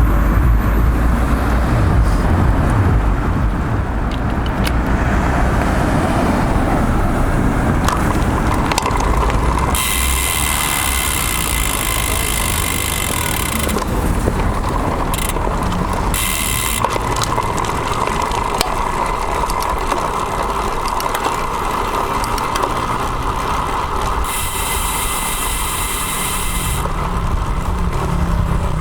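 Riding a road bike in road traffic, heard through a bike-mounted action camera: wind rumble on the microphone and passing motor vehicles. In the second half a high buzz switches on and off several times.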